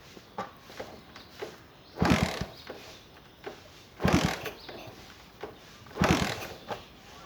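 A Bajaj Caliber motorcycle being kick-started from cold: three kicks about two seconds apart, the engine turning over briefly each time without catching.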